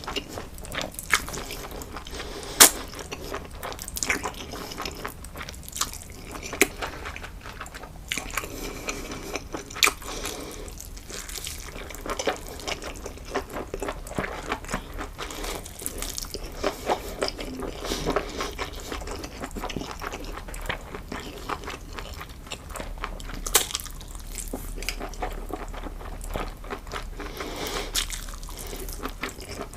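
Close-miked eating: crunchy bites and chewing with wet mouth sounds, sharp irregular crunches every second or so throughout.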